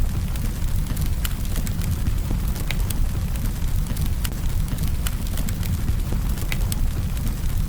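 Campfire burning: a steady low rumble of the fire with sharp crackles and pops of burning wood scattered irregularly, about one or two a second.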